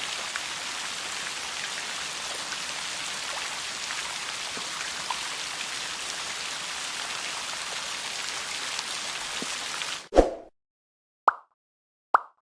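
Steady rain with individual drops tapping through the hiss. It cuts off suddenly about ten seconds in, and three short, separate sounds follow.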